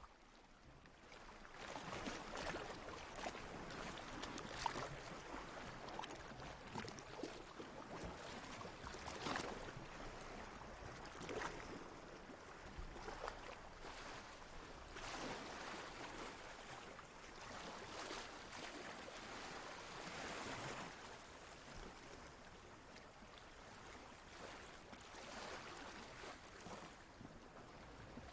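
Water lapping and sloshing in irregular small splashes over a steady wash, swelling a little after the first couple of seconds.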